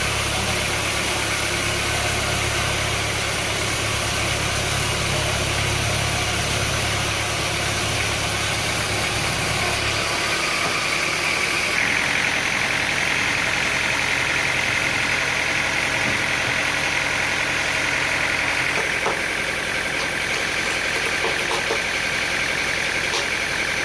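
An engine running steadily. About ten seconds in its low hum drops away, and from about twelve seconds a higher, steady whine comes up.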